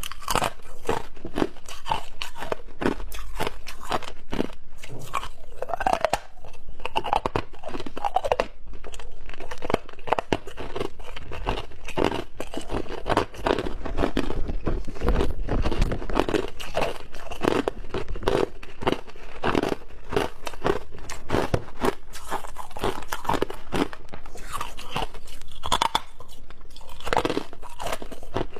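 A person biting and chewing chunks of clear ice close to the microphone: continuous rapid crunching and cracking.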